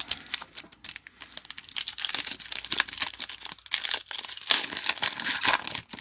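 Foil trading-card pack wrapper being torn open and crinkled by hand, a dense crackling rustle with many small snaps, loudest in the second half.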